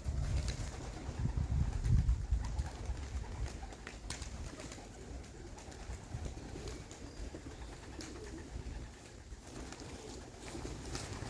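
Racing pigeons in a loft cooing, with a few short clicks. A low rumble of noise is loudest in the first few seconds.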